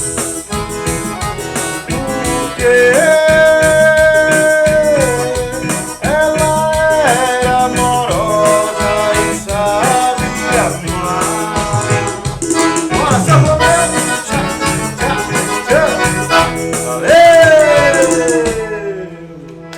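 Live forró song: a 120-bass piano accordion playing with singing and rattling percussion, the last held note sliding down and the music fading out about a second before the end.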